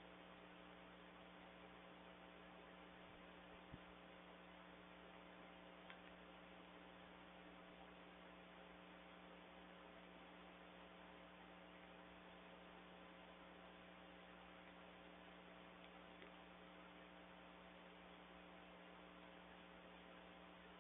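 Near silence: a faint, steady electrical hum with hiss, with two faint ticks about four and six seconds in.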